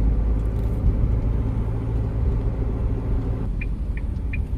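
Steady low road rumble inside a moving car. About three and a half seconds in, a turn signal starts ticking, a little over two ticks a second, as the car prepares to turn off.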